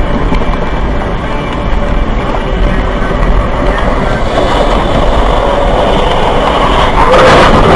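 Steady, loud rumble and rushing of a moving vehicle, which grows louder near the end.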